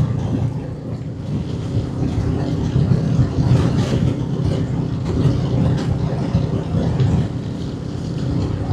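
Motorcycle engine running steadily at cruising speed, with wind and road noise on the rider's microphone.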